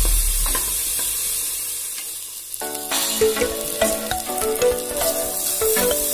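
Chopped onions and green chillies sizzling in hot oil in a pot, stirred with a wooden spatula. Background music with melodic notes comes in about two and a half seconds in.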